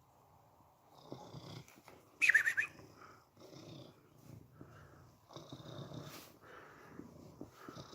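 Cat purring in rhythmic rises and falls with each breath as it drifts off to sleep, with one short, loud, high-pitched squeak about two seconds in.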